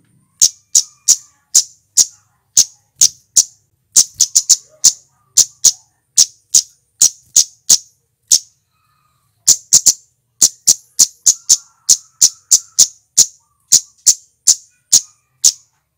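Male flowerpecker (cit keres, cabe-cabean) calling: sharp, very high single notes repeated about two or three times a second, with a pause of about a second just past the middle.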